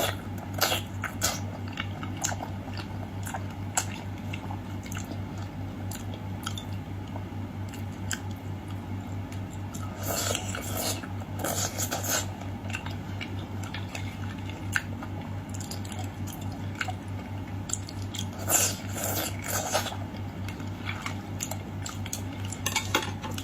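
Close-miked chewing of soft raw salmon belly: many short wet mouth clicks, with two denser bouts of chewing about ten seconds in and near nineteen seconds. A steady low hum runs underneath.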